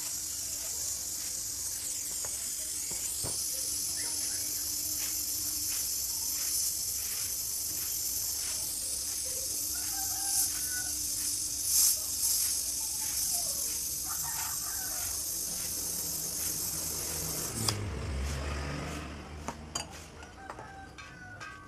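Refrigerator compressor running with a steady low hum and a steady high hiss of air rushing through its pipe. The hiss cuts off suddenly near the end with a low thump, followed by a few light clicks.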